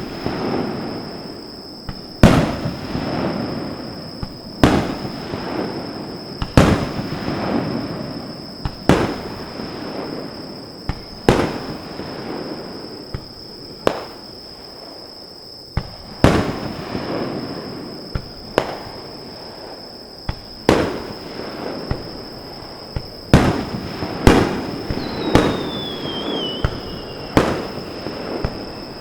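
Aerial fireworks shells bursting, a loud bang about every two seconds, each trailing off in a long rolling echo. The bangs come closer together near the end, with a brief falling whistle among them.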